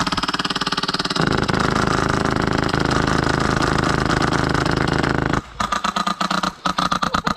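Polarstar HPA-powered airsoft M249 light machine gun firing full auto: one long unbroken burst of very fast shots, then from about five and a half seconds in a run of short bursts with brief gaps between trigger pulls.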